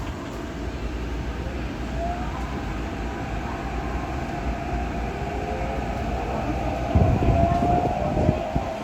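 Tokyo Metro 8000-series subway car running, with a rumble and a whine from the traction equipment that slowly rises in pitch as the train gathers speed. A few thumps about seven to eight and a half seconds in.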